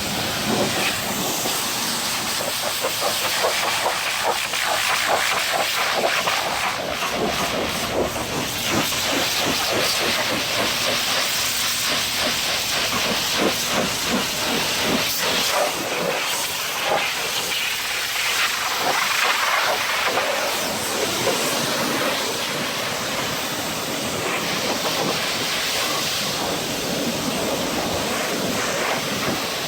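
Pressure washer spray hitting a truck's body: a steady hiss of water spray with an uneven spattering flutter through it.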